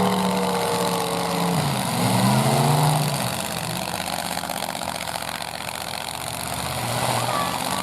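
Full-size pickup truck engines revving in a demolition derby. The pitch holds, drops about two seconds in and climbs again, then gives way to a rougher, lower running sound.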